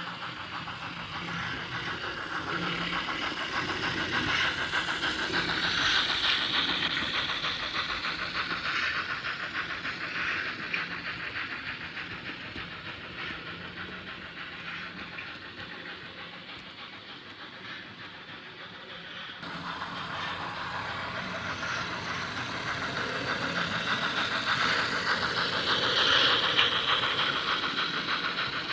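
HO-scale model freight train, hauled by a Märklin BR 50 steam locomotive model, running along the track with a steady rolling noise and fine rapid clicking from wheels and rail joints. It gets louder as it passes close, about 6 s in, fades, and then gets louder again near the end.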